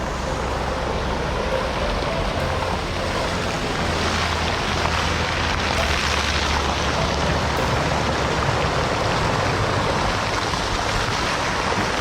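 Steady road noise of a car driving on wet streets in the rain: a hiss of tyres on wet pavement over a low rumble.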